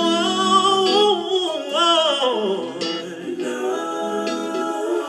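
Live R&B singing: a voice holding and bending long wordless notes, sliding up and down in pitch, over sustained backing harmony.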